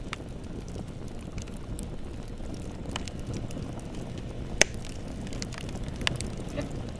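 Bonfire burning with a low steady rumble and scattered crackles, a sharp pop about four and a half seconds in and another about six seconds in.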